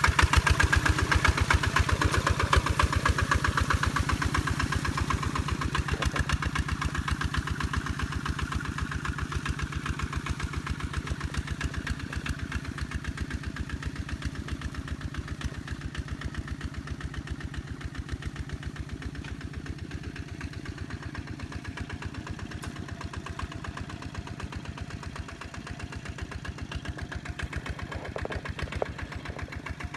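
Kubota tractor's diesel engine running steadily under load with an even rapid chugging, growing fainter over the first dozen seconds or so, then holding steady.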